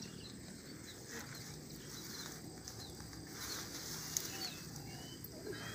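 Quiet outdoor background with scattered short, high bird chirps, and a single sharp click about four seconds in.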